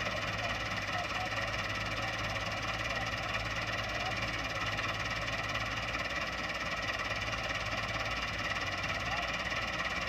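Massey Ferguson 240 tractor's diesel engine running at a steady speed, with no revving or change.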